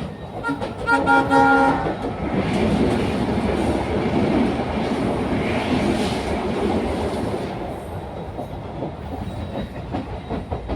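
Indian Railways train sounding a short horn blast about half a second in, lasting about a second and a half, then running past with a broad rumble and its coaches clattering over the rail joints, fading toward the end.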